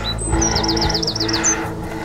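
A bird chirping: a quick run of about eight short, falling high notes about half a second in, with a steady music bed underneath.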